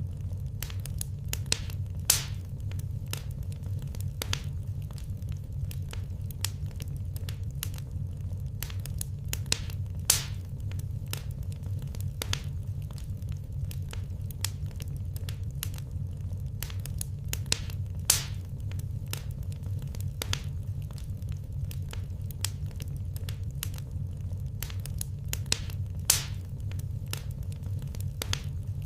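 Wood fire crackling steadily with many small pops and snaps over a low, even rumble, and a sharper, louder pop about every eight seconds.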